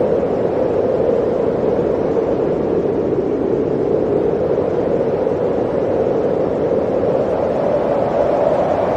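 Blizzard wind blowing hard and steadily, a dense rushing noise whose pitch drifts slightly higher near the end.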